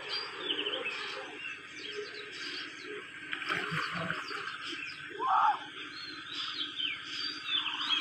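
Small birds chirping and calling all the while, many short quick notes, with one louder, lower call about five and a half seconds in.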